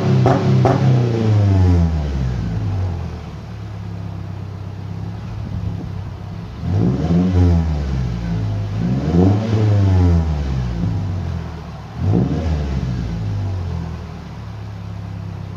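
Subaru Crosstrek's 2.0-litre FB20 flat-four through an LP Aventure muffler delete, revving and idling. It drops from high revs to idle in the first two seconds, then is revved up and back down three times, the last a quick blip, with idle in between.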